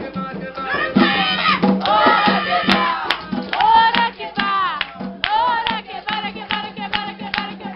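A group of voices singing and calling out together in an Afro-Brazilian roda chant for Xangô, with many loud, overlapping shouts that swoop down in pitch.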